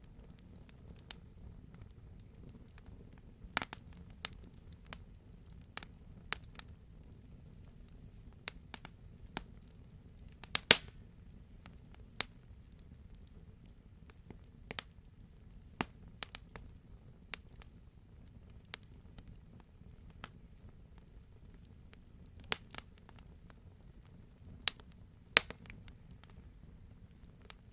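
Campfire crackling: irregular sharp pops and snaps of burning logs over a low, steady rumble, with a quick cluster of loud pops about eleven seconds in.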